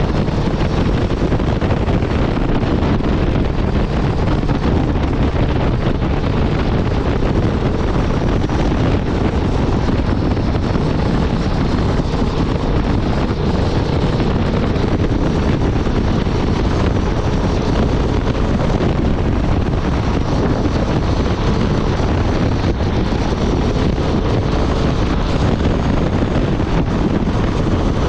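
Honda Transalp 750's parallel-twin engine running at a steady highway cruise, mixed with heavy wind buffeting on the microphone.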